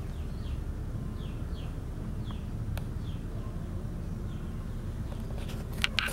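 A bird calling a series of short falling chirps, one or two a second, over a steady low rumble. A few sharp clicks come near the end.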